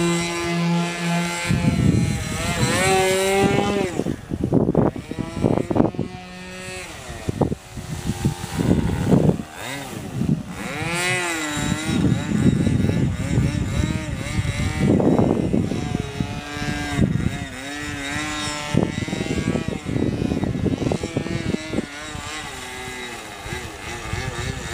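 Two-stroke .46 glow engine of an RC model airplane in flight, buzzing with a propeller, its pitch steady at first and then rising and falling repeatedly as the throttle changes and the plane passes. Wind buffets the microphone in repeated low rumbling gusts.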